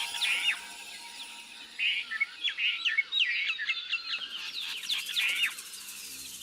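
Birds chirping in quick flurries of short, sharp calls, with a brief lull about a second in before the calls pick up again.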